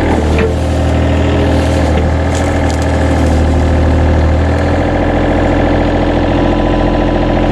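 A motor engine running steadily and loudly close by, its low hum shifting about four and a half seconds in.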